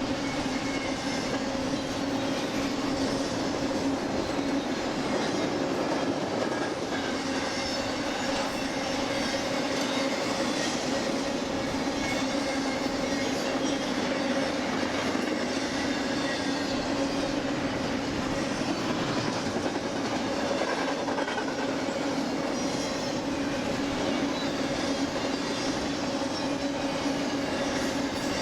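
BNSF intermodal freight train rolling past steadily: wheels clattering on the rail over a constant rumble and a steady low hum, with faint high wheel squeal coming and going.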